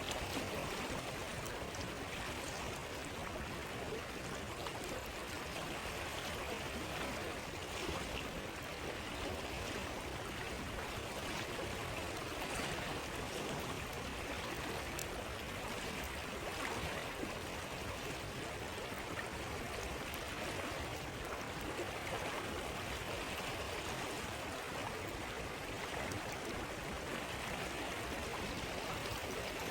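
A river stream flowing steadily, with a few faint crackles from a campfire scattered through it.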